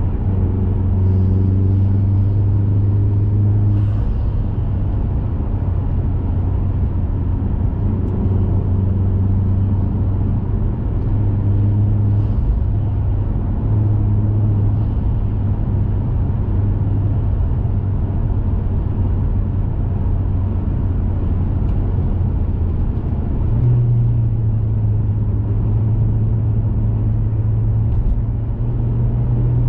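A 2021 Mazda 3 Turbo hatchback's turbocharged 2.5-litre four-cylinder with a CorkSport cat-back exhaust, cruising with a low, steady drone over tyre and road noise. The engine note steps up in pitch about two-thirds of the way through and again near the end.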